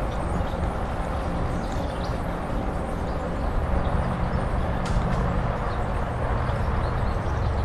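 Steady wind and road noise from riding a bike along a road, with a low hum underneath that shifts slightly about halfway through.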